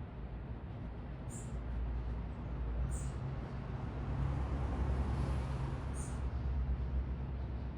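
Steady low rumble of city traffic that swells in the middle as a vehicle goes by, with three short, high bird chirps: about one and a half, three and six seconds in.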